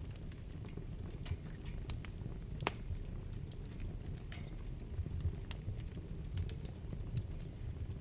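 Wood fire burning in a fireplace: irregular sharp crackles and pops over a steady low rumble of the flames, with the loudest pop about two and a half seconds in.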